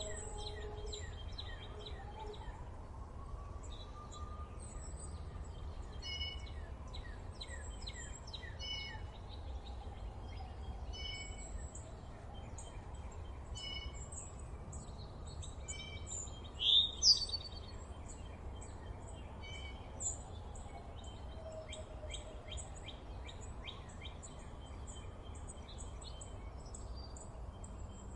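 Forest birds chirping and singing, many short repeated high notes from several birds overlapping throughout, over a steady low background rumble. About seventeen seconds in, one bird gives a louder, sweeping double call.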